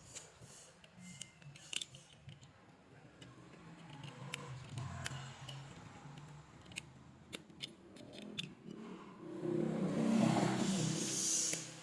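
Scattered sharp clicks and snips of hand tools working on small parts, with a louder scraping, rustling noise about ten seconds in.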